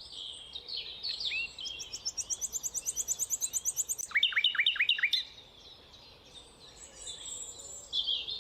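Common nightingale (rufous nightingale) singing: varied phrases, with a fast, even trill of high notes about two seconds in, then a loud run of about six repeated sharp notes just past the middle, followed by softer warbling.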